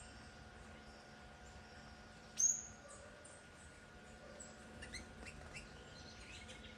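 Songbirds calling: one sharp, high call about two and a half seconds in, then a run of short chirps near the end.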